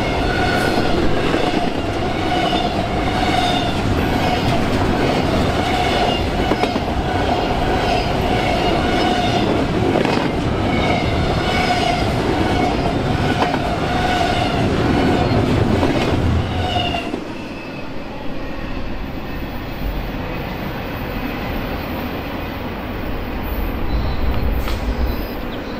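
A train rolling by on the rails, with wheel noise and clickety-clack and a high ringing tone that pulses about once a second. About two-thirds of the way through the ringing stops and the sound drops to a quieter rumble.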